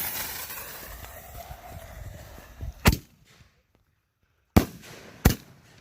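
Consumer fireworks going off: a hissing, crackling burst that fades over about three seconds, then three sharp bangs about three, four and a half, and five seconds in.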